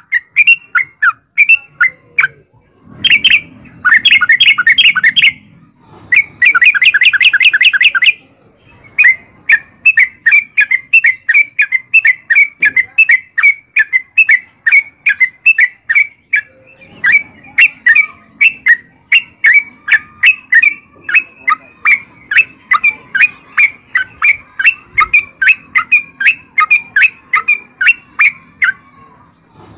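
Yellow-vented bulbul (trucukan) song: rapid, dense chattering runs of notes about three and six seconds in. These are followed by a long, even series of bubbling chirps at about four a second.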